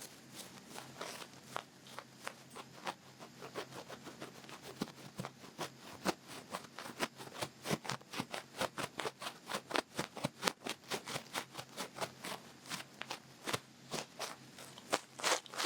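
Long-fluffed ear pick scratching and brushing in an ear: a quick run of crackling scratches that grows denser after the first few seconds.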